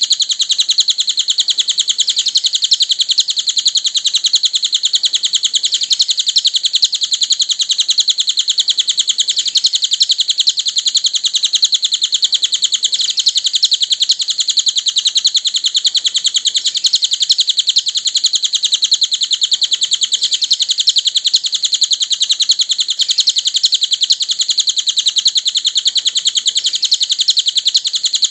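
Cililin songbird chirping in a rapid, unbroken stream of high notes, a continuous masteran birdsong track used to train caged birds.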